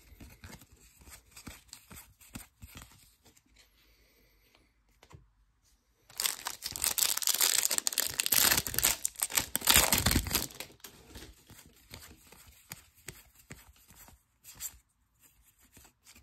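Foil card wrappers being torn open and crinkled, with cards shuffled and handled around it. The tearing and crinkling is loudest for about four seconds in the middle.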